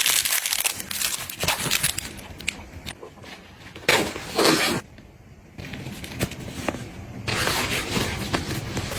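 Close-up handling sounds: packaging rustling and crinkling, with many light clicks and taps of items being handled and set down, and stretches of louder rustling about four seconds in and again near the end.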